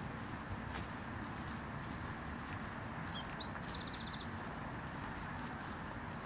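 A small songbird singing one phrase about two seconds in: a run of quick repeated high notes, then a short rapid trill. Under it runs a steady background rumble of traffic.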